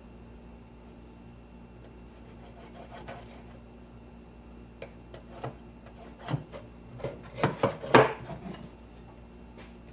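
Thin sheet-metal shim being worked and bent by hand: a brief rubbing, then a run of sharp clicks and taps that is loudest about eight seconds in.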